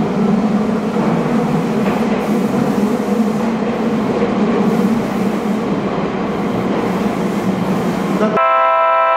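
Meitetsu electric train moving through the underground station, a loud steady rumble and hum. Near the end the rumble cuts off abruptly and a short horn-like tone sounds.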